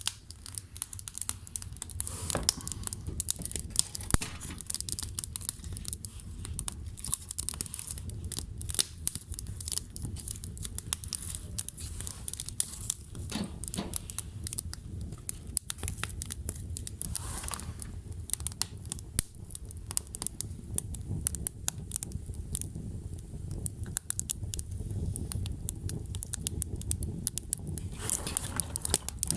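Wood fire burning and crackling, with frequent sharp pops and snaps over a low steady rumble of the flames.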